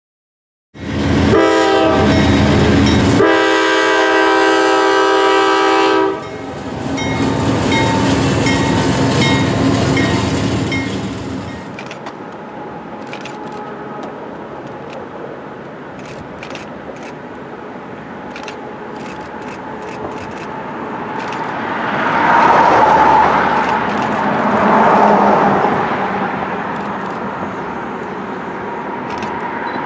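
A freight locomotive's horn sounds a loud chord for about five seconds, then more faintly for several seconds after. The train then rolls on with wheels clicking over rail joints and a rumble that swells twice near the end.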